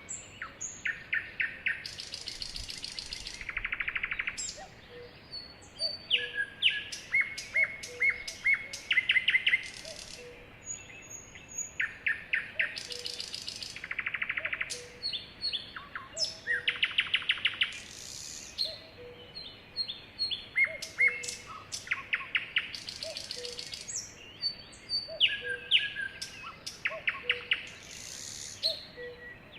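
Sparrows singing: repeated phrases of rapid trills, buzzy notes and sharp chirps, coming every few seconds.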